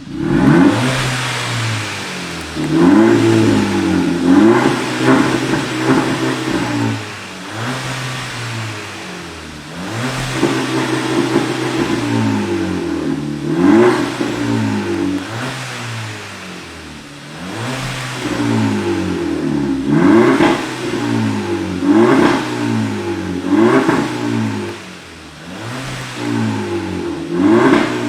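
Volkswagen Scirocco engine revved over and over through a remote-controlled valved exhaust, its pitch rising and falling with each blip of the throttle.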